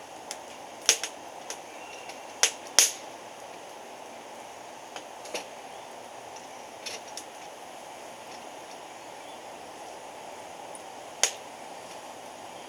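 Wood fire burning with a steady hiss and irregular sharp crackles and pops, about seven in all, the loudest ones near the start and one near the end.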